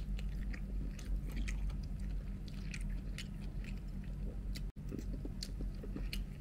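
Close-up chewing of a mouthful of rice and stir-fried Chinese kale, with irregular wet mouth clicks.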